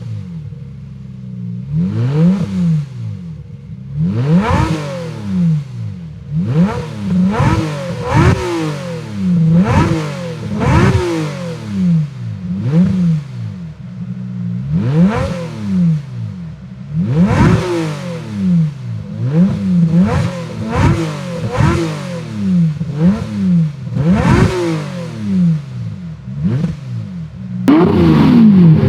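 Lamborghini Murcielago V12, fitted with an aftermarket exhaust, free-revving while parked. It gives a long series of quick throttle blips, each pitch rising and falling back to a steady idle, about one to two seconds apart. Near the end the sound cuts to a louder, fuller run.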